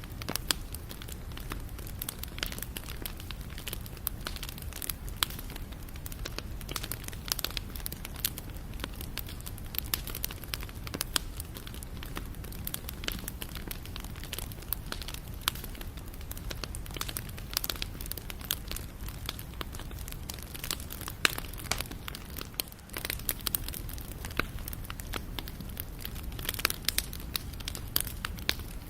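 Wood campfire crackling: a constant irregular stream of sharp pops and snaps over a steady low rumble of the burning fire.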